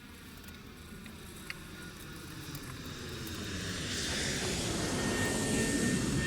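Engine noise from something passing, growing steadily louder over several seconds as it approaches.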